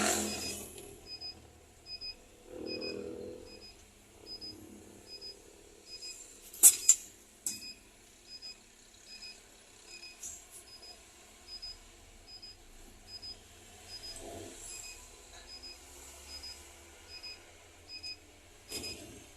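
An electronic warning beeper in the Scania bus sounds a short high beep about every three-quarters of a second, over a faint low engine hum. Several sharp clicks come around the middle and again near the end.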